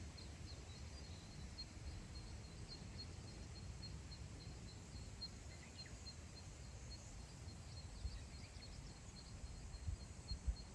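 Wind rumbling on the microphone over open grassland, gusting harder near the end. Under it runs a faint high chirp repeated evenly about three times a second, with a few scattered faint bird calls.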